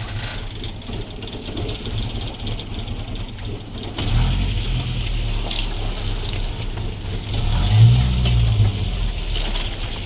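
Car engine running steadily, its note rising and falling briefly about eight seconds in.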